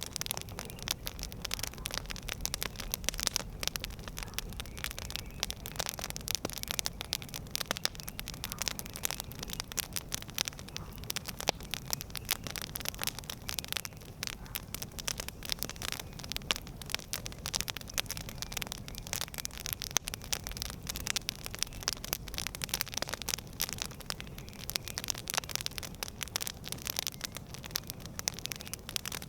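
Campfire crackling: dense, irregular pops and snaps of burning wood over a low, steady rumble.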